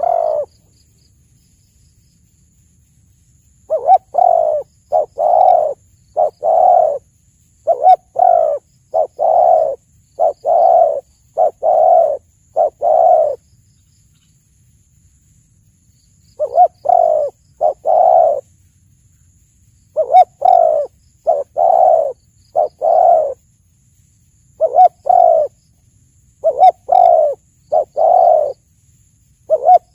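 Spotted dove (tekukur) cooing: phrases of several deep coos repeated again and again, with short pauses between the phrases.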